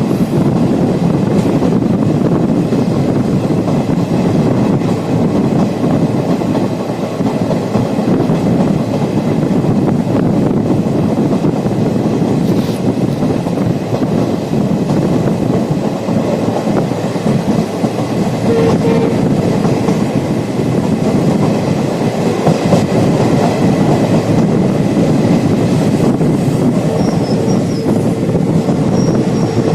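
Diesel-hauled passenger train running along the track: a steady, loud rumble of wheels on rails. A thin steady tone comes in briefly about two thirds of the way through, and again near the end.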